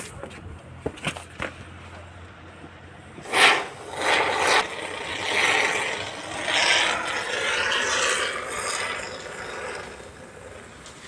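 Scraping noise in several long, uneven surges, with a few sharp clicks in the first second and a half.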